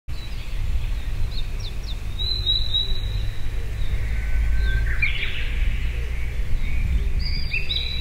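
Blue-and-white flycatcher singing: scattered clear whistled notes and short slurred phrases, with a brief rough note about five seconds in, over a steady low rumble.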